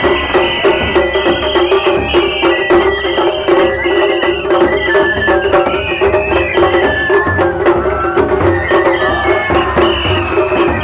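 Japanese festival hayashi music: a high melody stepping from note to note over continuous drumming and clacking percussion.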